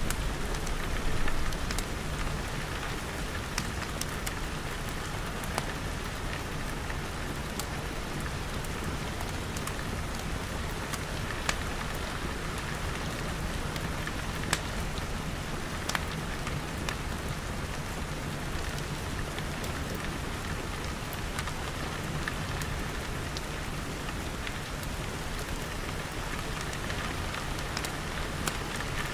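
Steady rain falling on glass walls and roof, an even hiss with scattered sharp clicks that fit the crackle of a wood fire. A low rumble sits under it in about the first second.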